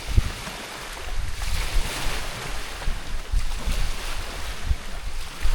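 Waves washing against the shore of a river bay, one wash swelling about a second and a half in, with wind buffeting the microphone as a gusty low rumble.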